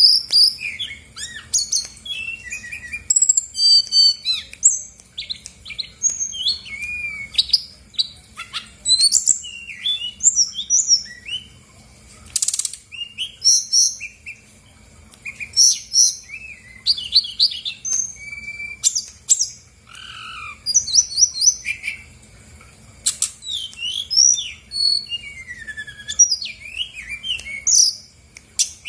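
Brown-chested jungle flycatcher singing a fast, varied song of high chirps, short whistles, trills and a few harsh rasping notes, full of mimicked phrases, with hardly a pause.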